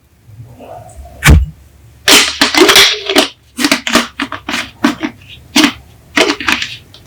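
Soda bottles being handled: sharp crackles, clicks and taps, with a dull thump about a second in and a longer crackling, crinkling stretch after two seconds.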